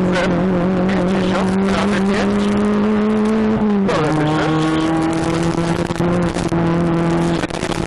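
Citroen Saxo rally car's four-cylinder engine running hard at high revs, heard inside the cabin; its pitch climbs slowly, then drops sharply about four seconds in at an upshift and holds steady, with the loudness dipping near the end.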